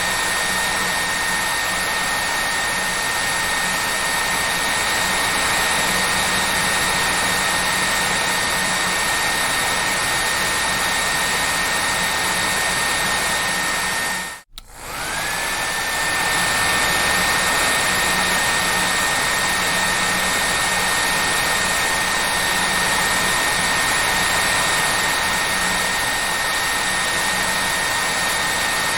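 Hair dryer running steadily, a rushing airflow with a high motor whine. About halfway through it drops out for a moment, then comes back with the whine rising back up to pitch.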